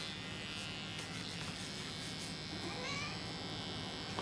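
Electric hair clippers running steadily as they shave a cat's fur, with a short high chirp-like cry from the cat about three seconds in.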